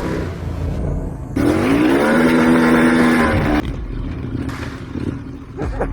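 Motorcycle engine running with a low rumble. About a second and a half in, it revs up and holds a higher steady pitch for about two seconds before dropping back.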